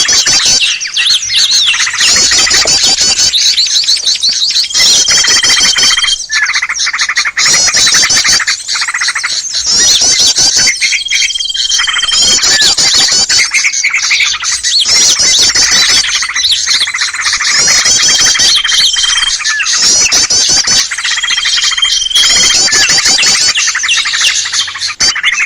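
Bird-lure recording of many small birds chattering and twittering together in a dense, fast, high-pitched chorus. A steady high whistled note about a second long cuts through it four times.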